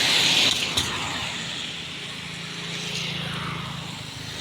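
Road vehicle noise while driving: a steady rush of tyre and wind noise, loudest in the first half second, with a single click just under a second in.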